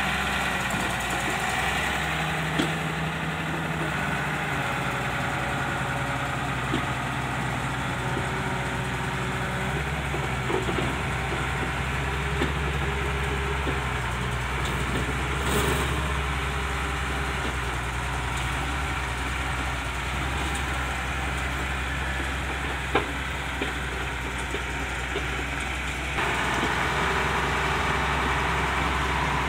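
Heavy diesel machinery engine running steadily, with a few short sharp knocks scattered through. The engine gets louder a few seconds before the end.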